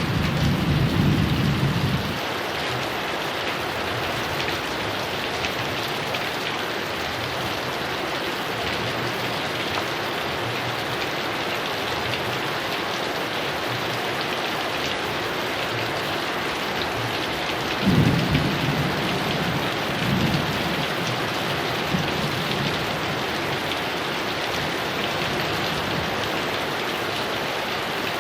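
Heavy rain falling steadily, with rolls of thunder: a low rumble dying away about two seconds in, and another rising more than halfway through, followed by fainter rumbles.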